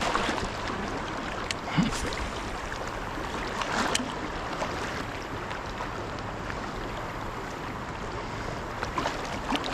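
Steady rush of flowing river water around a kayak, with a few faint light clicks and knocks.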